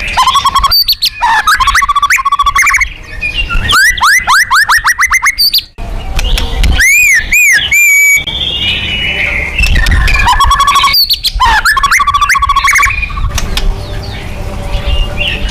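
White-rumped shama (murai batu) singing loudly, a string of varied phrases: rapid trills, quick falling sweeps and clear arched whistles, with short pauses between them.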